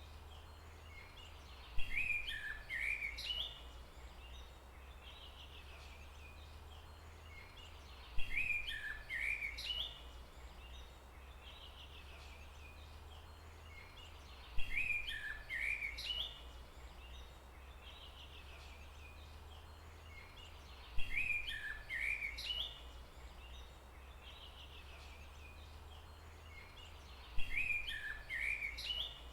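A songbird's short chirping phrase, repeated five times at even intervals of about six seconds, each lasting under two seconds. Underneath is a faint, steady low background rumble.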